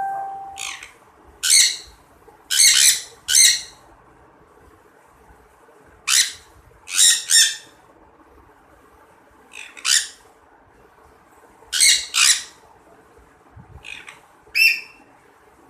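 Captive birds squawking: a dozen or so short, harsh, noisy calls, often in pairs, coming every one to three seconds.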